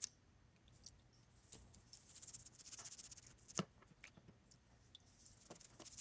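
Toothbrush scrubbing small toy-car wheels in soapy water, in faint runs of quick strokes with scattered clicks; the loudest is a sharp click about three and a half seconds in.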